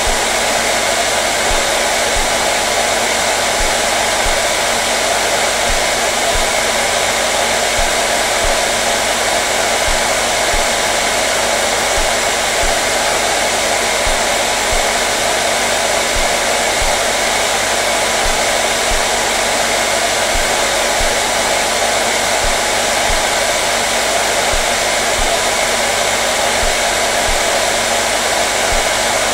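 Hair dryer running continuously at a steady speed: an even, unbroken whooshing blow with a constant motor hum.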